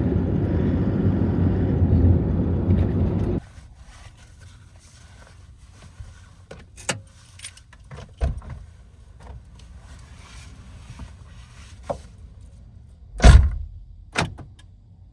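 Steady engine and road rumble inside a moving Toyota HiAce van, cut off abruptly a few seconds in. Then scattered small clicks and knocks, and a loud heavy thump near the end followed by a lighter one.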